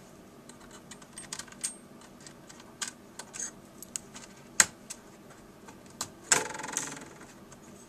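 Small loose screws being fished out of a laptop's casing: scattered light clicks and ticks of metal on plastic, a sharper tick about four and a half seconds in, and a brief ringing rattle a little after six seconds.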